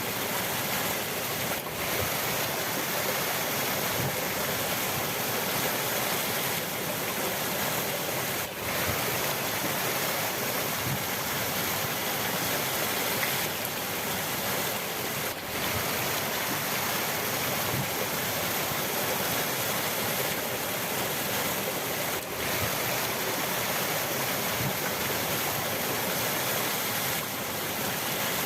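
River water rushing steadily, a dense even roar that dips for a moment about every seven seconds.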